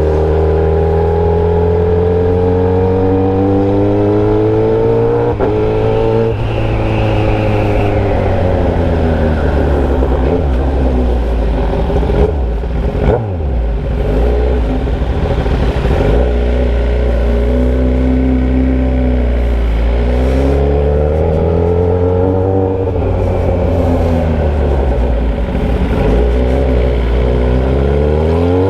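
Motorcycle engine running with no muffler, straight out of the open header pipe, while riding. The pitch climbs and falls again and again with throttle and gear changes, with a sharp drop and recovery about halfway through.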